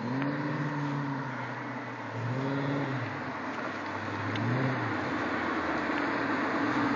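BMW E38's V8 engine and exhaust revved in three short blips, each rising and falling back in pitch within about a second. Near the end the exhaust note grows louder and steadier.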